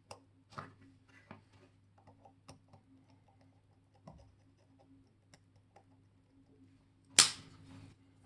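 Light clicks and scratches of small metal tools handling watch parts, over a steady low hum. About seven seconds in there is one loud, sharp clack with a brief rustle after it.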